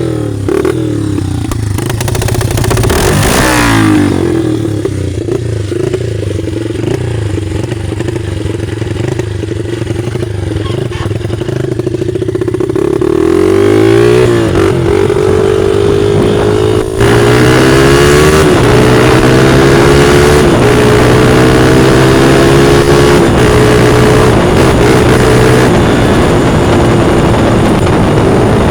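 Straight-piped 2004 Honda CRF80F dirt bike's single-cylinder four-stroke engine running at a steady low speed, with a short blip of the throttle a few seconds in. About halfway through it revs up and gets louder, and its pitch climbs and drops again and again to the end.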